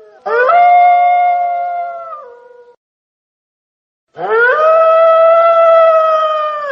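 Wolf howling: two long howls, each sliding up at the start and then held steady, with a silent break of about a second and a half between them; the second is still going at the end.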